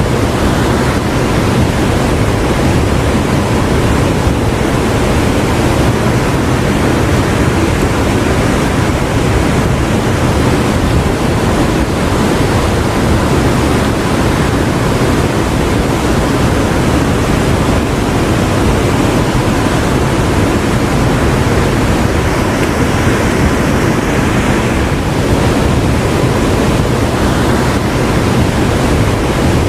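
Churning seawater of a large whirlpool: a loud, steady rush of water that never breaks or changes.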